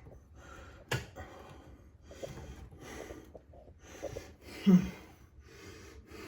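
A person breathing hard in short bursts while straining to tighten a dripping sink drain fitting, with a sharp click about a second in and a short low grunt of effort about two-thirds of the way through.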